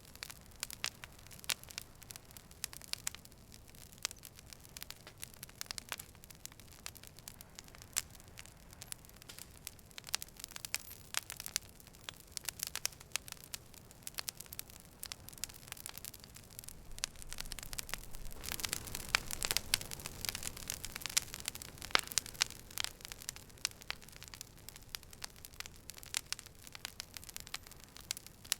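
Campfire crackling: irregular sharp pops and snaps of burning wood over a soft steady background, growing denser and louder for a few seconds past the middle.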